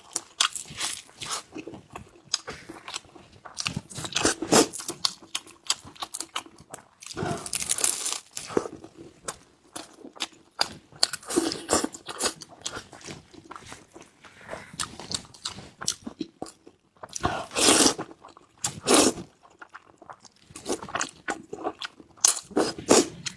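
A person biting and chewing a roujiamo, a flatbread bun stuffed with fatty meat, in irregular crunchy bursts with short pauses between mouthfuls.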